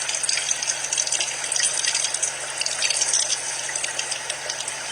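Shower water spraying steadily, with small splashy flickers as the stream breaks up on a surface.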